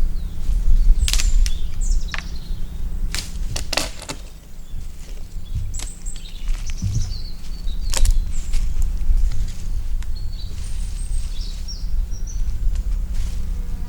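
Small birds chirping now and then over a steady low rumble, with several sharp clicks or knocks in the first half.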